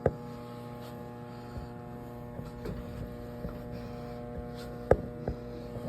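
Steady electrical mains hum, a low buzz with several even overtones, with a sharp knock at the start and another about five seconds in.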